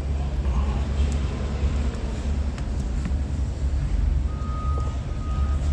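Steady low vehicle engine rumble, with a repeating electronic beep starting about four seconds in.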